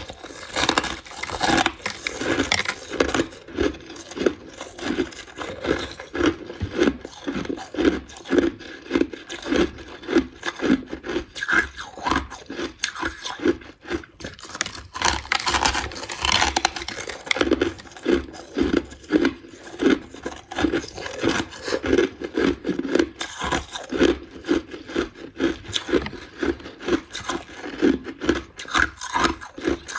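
A person chewing crushed ice, a steady run of crunches at about two a second.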